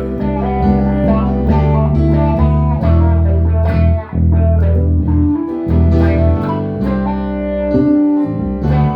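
Instrumental jam: a guitar playing plucked note lines over a bass guitar holding deep sustained notes.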